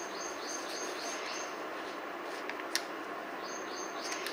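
A small bird chirping in the background: runs of short, high chirps repeated several times a second, near the start and again near the end, over a steady faint hiss. A single sharp click a little past the middle.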